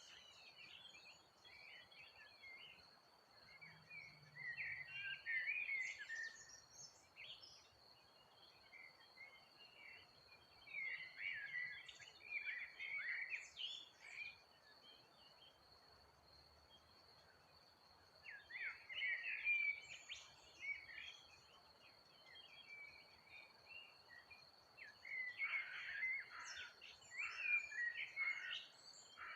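Songbirds chirping and singing in short bouts every several seconds, over a faint steady high thin tone.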